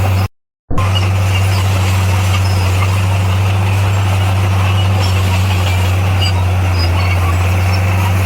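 Heavy diesel engine of earthmoving machinery running at a steady speed, a constant low drone. It cuts out for about half a second near the start.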